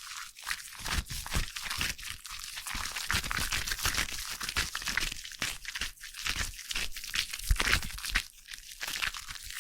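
Foam crackling close to the microphone: a dense, uneven run of tiny pops and crinkles as the bubbles burst.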